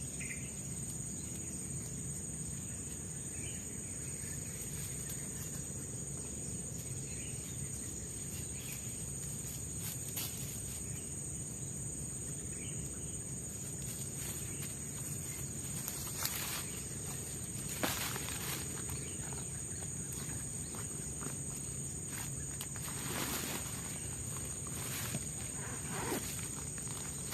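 Steady high-pitched drone of forest insects, with a few scattered knocks and rustles in the second half.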